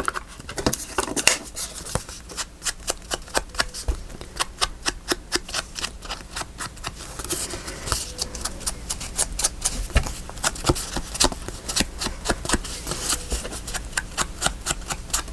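Paper and craft tools being handled at a work table: a dense, irregular run of small clicks, taps and rustles, several a second.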